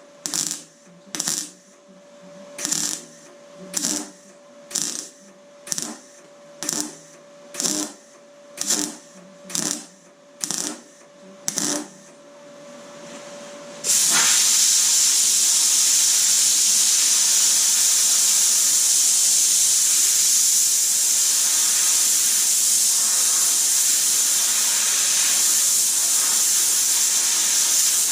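MIG welder stitch-welding thin door steel in short bursts of crackling hiss, about one a second, over a steady hum. About fourteen seconds in, a loud, even hiss starts abruptly and holds steady.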